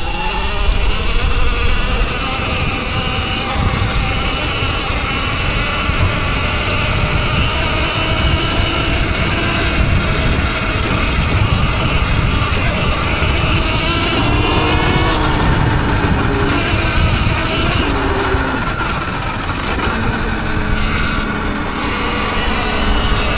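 Electric dirt bike motor whining while riding, its pitch rising and falling with speed, over heavy wind rumble on the microphone.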